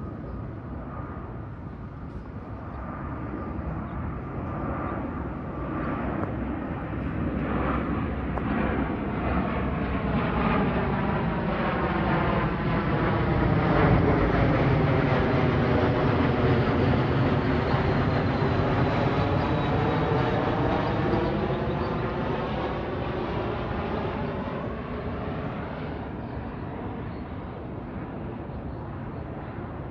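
Southwest Boeing 737-700's CFM56-7B jet engines passing low on landing approach. The engine noise swells to a peak about halfway through and then fades, with a high fan whine dropping in pitch as the jet goes by.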